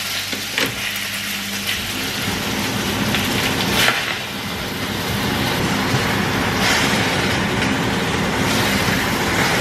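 Fresh spinach leaves sizzling in hot olive oil in a frying pan over too-high heat, stirred with a wooden spatula, with a sharp knock of the spatula on the pan about four seconds in. A kitchen range hood fan runs steadily underneath.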